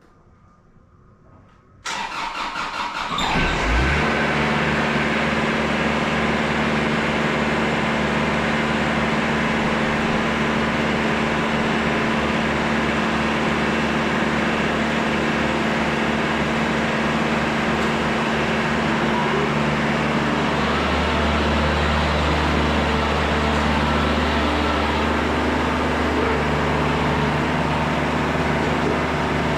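Kubota tractor's diesel engine cranked by the starter motor, catching after about a second and a half and then running steadily. About two-thirds of the way through, its running note changes slightly.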